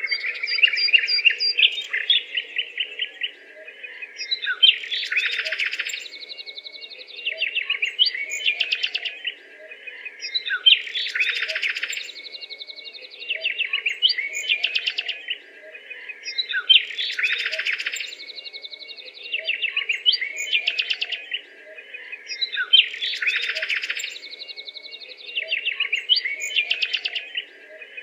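Small birds chirping and twittering in quick trills. The same run of calls repeats about every six seconds.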